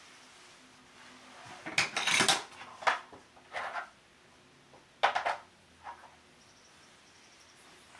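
Small hard containers, paint bottles, clinking and knocking as they are picked up and set down on a workbench. There are several short clusters of clinks, the loudest about two seconds in and the last about six seconds in.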